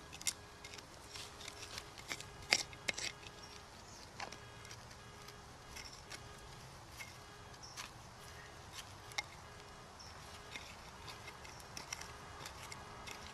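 Hand digging tools clicking and knocking against stones in the soil: irregular sharp clicks, a few clustered between about two and three seconds in, over a faint steady hiss.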